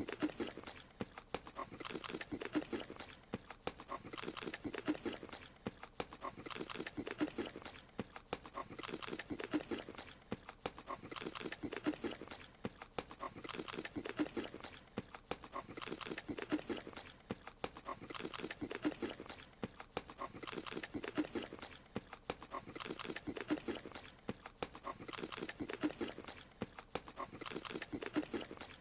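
Cartoon creature eating: fast, quick-clicking chewing and munching noises in bouts of about two seconds, repeating in an even loop.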